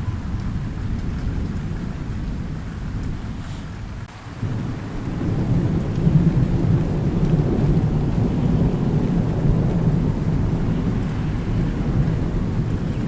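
Thunder rumbling over steady rain. The rumble dies down about four seconds in, then a new roll of thunder builds and rolls on.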